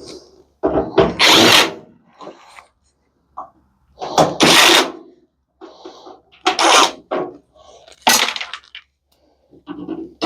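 Cordless power drill/driver running in short bursts of under a second, about four loud ones, backing screws out of a microwave's casing.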